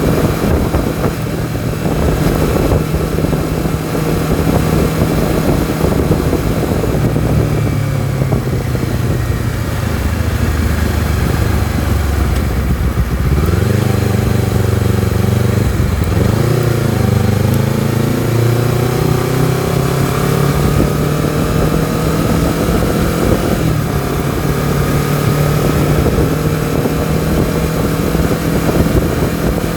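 Honda CBR250RR's parallel-twin engine under way: the revs sag slowly over the first dozen seconds, waver briefly, then climb gradually to the end as the bike pulls. Wind rushes over the microphone.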